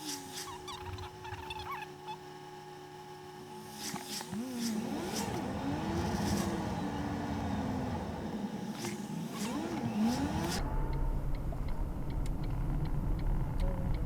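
Car running, with low engine and road rumble that grows louder about ten seconds in. A few rising-and-falling tones are heard in the middle.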